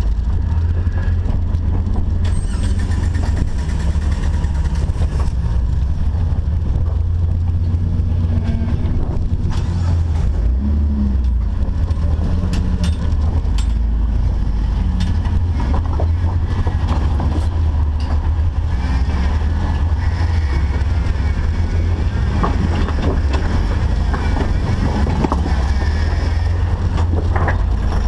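An off-road Jeep's engine running steadily at low revs, a deep, constant rumble, with a few scattered knocks and clicks along the way.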